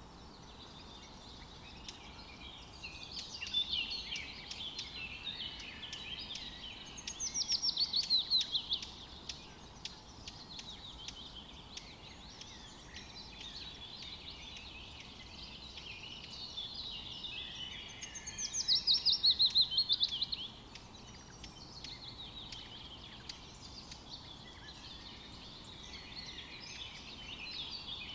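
Birds chirping and singing continuously, with two louder rapid trills that fall in pitch, one about seven seconds in and one about eighteen seconds in.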